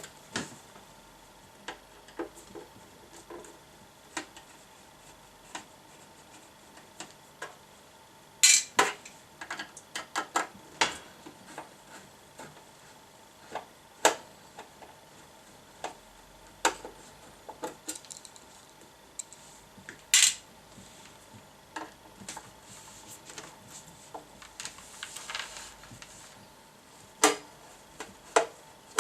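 Scattered clicks, clinks and knocks of tools and small metal parts being handled on a workbench, several sharper clacks among them, over a faint steady whine.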